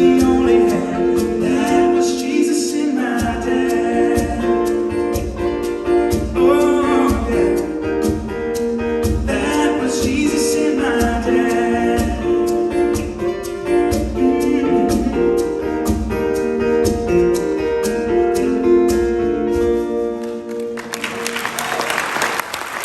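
A live band plays the instrumental ending of a gospel-style song with a steady beat and sustained chords. About a second before the end the music stops and the audience starts applauding.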